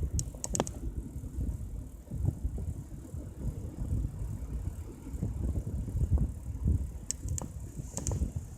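Mountain bike ridden on a road: uneven low rumble of wind and road noise, with a few sharp clicks and rattles near the start and again near the end.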